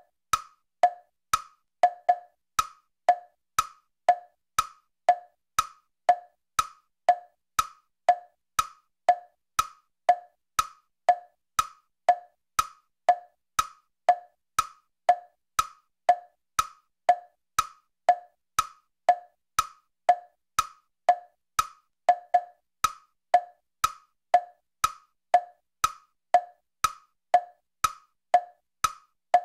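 Clock ticking: an even, steady tick-tock of sharp clicks, about two a second.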